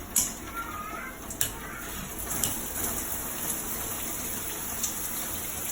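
Waterpik Power Pulse shower head spraying, a steady rush of water. A few sharp clicks sound within the first second and a half.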